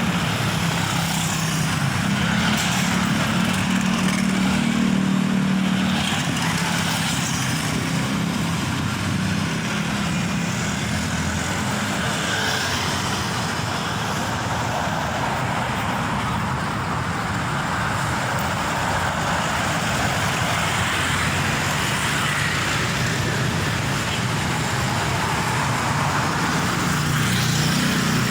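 Road traffic with a heavy truck's diesel engine running as it passes. Its low engine note is strongest in the first few seconds and again near the end, over a steady rush of tyres and traffic.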